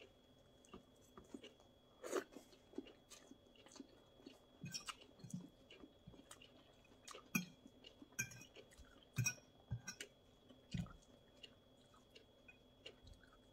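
Faint close-up chewing of a mouthful of leafy salad, with irregular small wet clicks and crackles.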